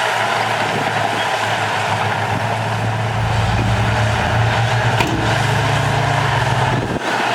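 Heavy diesel engine of earthmoving machinery running steadily, labouring harder from about three seconds in, with a single sharp knock about five seconds in.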